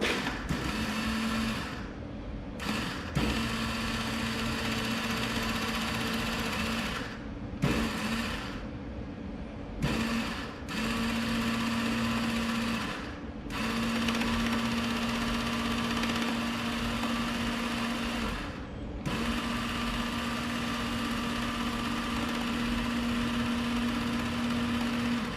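MIG welder's wire-feed motor running in about six trigger pulls of a few seconds each, giving a steady hum that stops and restarts. The drive roll is not turning, which the owner puts down to a drive gear that is probably stripped or loose.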